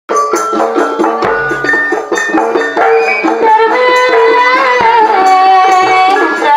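Jaranan music played live: a traditional Javanese ensemble of repeating pitched struck notes and drum strikes. A held, bending melody line comes in about three seconds in.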